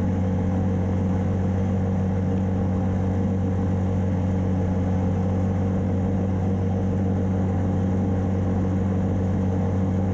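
1994 Yamaha Timberwolf 4x4 ATV's single-cylinder four-stroke engine running at a steady, even pitch under load in a low gear. The engine is bogging and losing power, barely keeping the quad moving.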